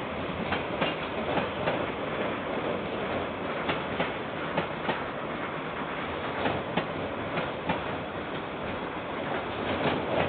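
KiwiRail freight train wagons rolling past: a steady rumble broken by irregular sharp clacks of wheels over the rail joints.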